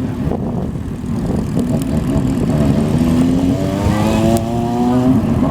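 Motorcycle engines running with a steady exhaust rumble; from a little past halfway through, one engine revs up, its pitch climbing steadily for about two seconds.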